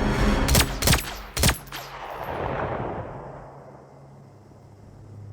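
Film-soundtrack gunfire: three sharp, loud shots within the first second and a half, followed by a swelling rush of noise that fades away.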